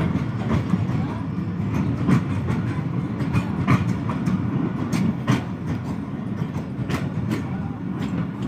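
Passenger train running along the track: a steady low rumble from the wheels and coaches, with irregular clicks and knocks as the wheels pass over the rail joints.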